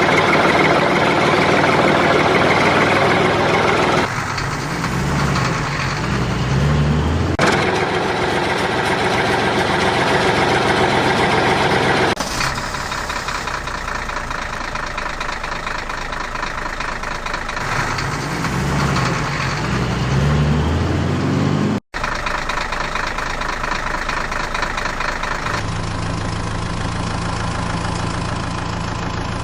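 Heavy vehicle engines running in a series of spliced segments: steady idling between stretches where the pitch rises and falls as the engine revs, with abrupt changes where the sound is cut.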